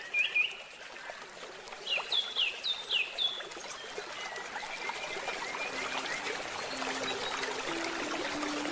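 River water babbling steadily, with songbirds chirping: a few chirps at the start and a quick run of falling chirps about two seconds in. Faint low held tones come in near the end.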